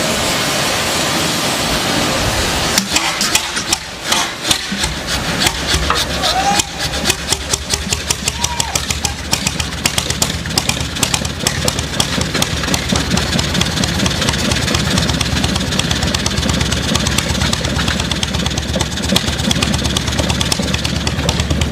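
24 hp semi-diesel tubewell engine being started: after a steady rushing noise, irregular firing knocks begin about three seconds in and settle into a steady, even run of engine beats, showing that the engine has caught and is running.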